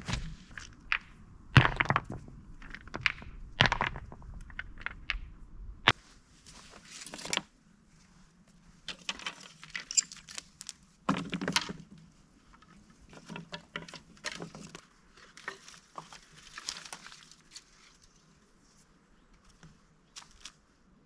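Irregular knocks, snaps and cracks of something being handled, loudest and most frequent in the first six seconds, then sparser, quieter clicks and rustles.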